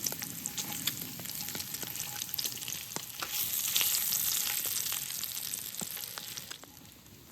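Food frying in a cast-iron pan over a campfire: a steady sizzle with scattered sharp pops, swelling louder through the middle and dropping away abruptly near the end.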